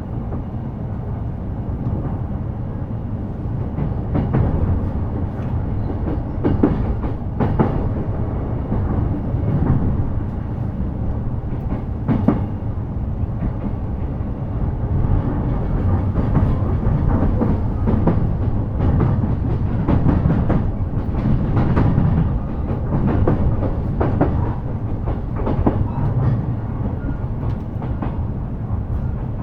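E233 series electric commuter train running, heard from inside the car: a steady low rumble with irregular clicks and knocks of the wheels over rail joints.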